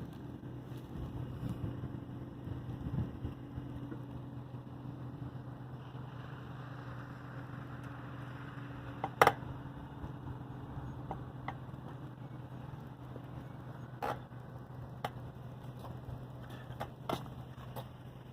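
Steady low hum of a running vehicle, with scattered clicks and knocks; a sharp click about nine seconds in is the loudest sound.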